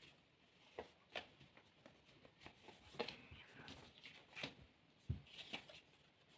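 Tarot cards being handled: soft, scattered flicks and slides of cards, with a few light taps.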